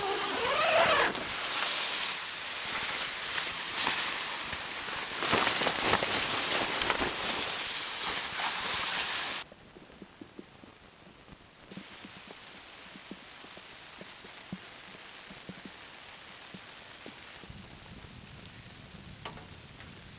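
Freezing rain and snow pattering on the tent, a steady hiss with scattered ticks. It is louder for the first half, then drops suddenly to a fainter patter about nine and a half seconds in.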